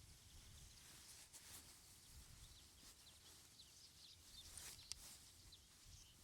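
Near silence: faint, scattered high chirps of small birds over a low rumble.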